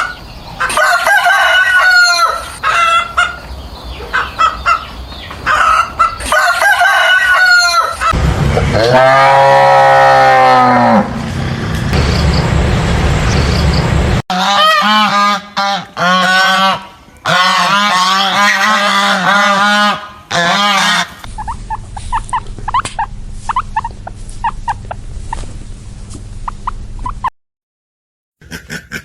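Poultry calls in a string of short clips: honking and clucking, with a loud drawn-out call about nine seconds in.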